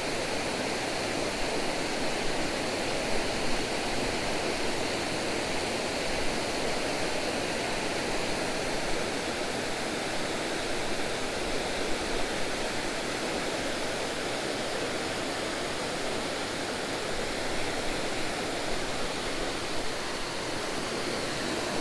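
Steady rush of a waterfall and its tumbling creek water, an even, unbroken noise.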